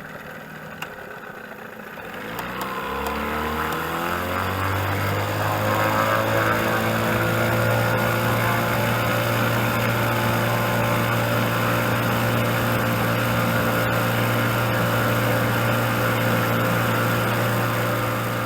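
Boat's outboard motor speeding up about two seconds in, its pitch rising for a few seconds, then running steadily at speed.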